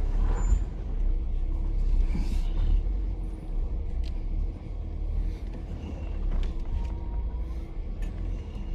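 Jeep crawling slowly over rock: a steady low engine and drivetrain rumble with scattered knocks and clunks from the tires and suspension.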